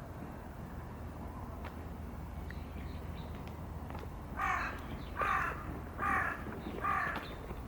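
A crow cawing four times in an even series, each caw short and harsh, starting a little past halfway, over steady outdoor background noise.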